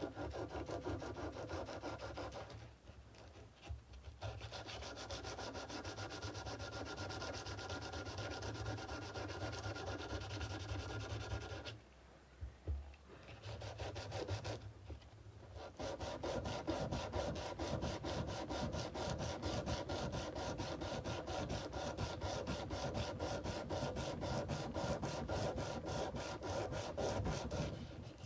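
Sandpaper being rubbed by hand along a steel kukri blade in quick back-and-forth strokes, broken by a few short pauses.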